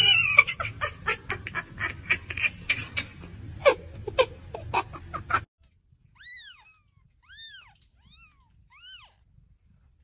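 A cat meowing amid a rapid run of clicks and taps; after an abrupt cut about five and a half seconds in come four short, high mews that rise and fall.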